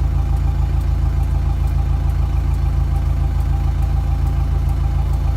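Engine idling steadily with a low, even hum. Faint regular ticks come through about twice a second.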